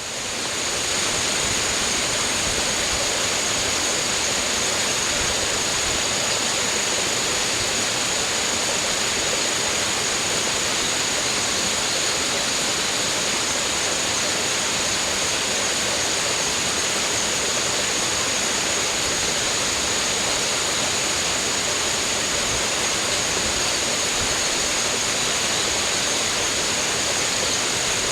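Steady rush of running water, even and unbroken, with a thin steady high-pitched tone above it; it fades in from silence at the very start.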